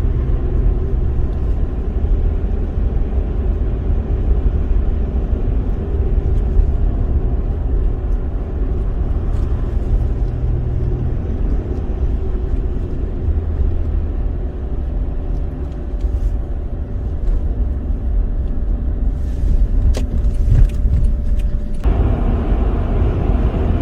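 Car driving on the road, heard from inside the cabin: a steady low rumble of tyre and engine noise. A faint steady hum cuts out near the end.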